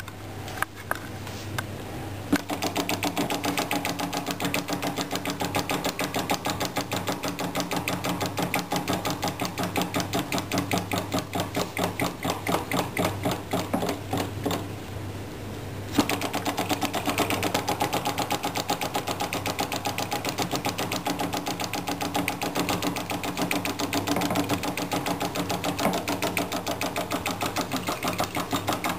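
Small flame-eater (vacuum) engine clattering with rapid, even mechanical clicks, its valve and piston cycling many times a second. It starts up about two seconds in after a few single clicks. Midway it falters for a couple of seconds, then picks up again, running unevenly while the engine is still cold.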